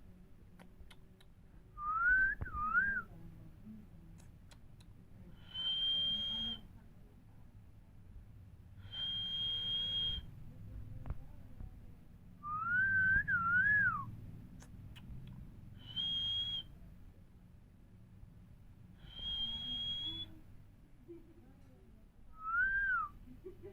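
A parrot whistling: seven separate whistles about three to four seconds apart. Wavering lower whistles that bend up and down alternate with steady, higher, hissier notes.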